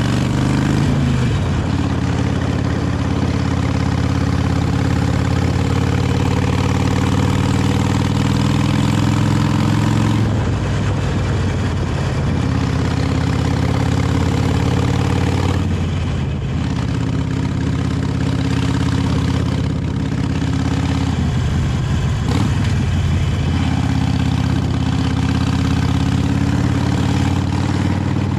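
Harley-Davidson 883 Iron's air-cooled V-twin with its stock exhaust, running under way on the road. The steady engine note breaks off and picks up again several times.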